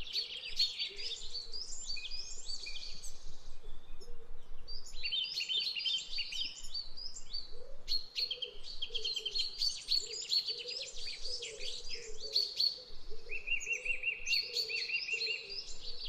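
Several small birds chirping and singing at once in a busy, overlapping chorus of high, quick notes, with a fast repeated trill near the end. A lower, softer sound runs underneath from about halfway through.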